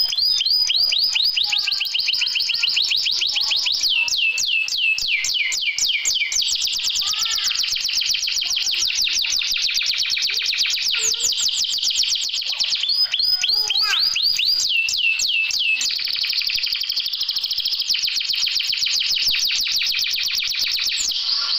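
Songbird song played as a training recording for canaries: a continuous string of fast trills, each phrase a rapid run of high, downward-sweeping notes, changing phrase every few seconds.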